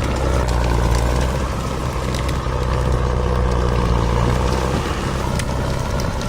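Heavy logging machine's diesel engine running steadily, with a few sharp knocks or clanks over it.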